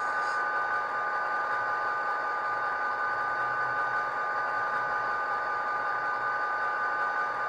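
ESU LokSound digital sound decoder in a KATO HO scale SD45 model playing its diesel locomotive sound through the model's small speaker: a steady engine drone with a constant whine over it.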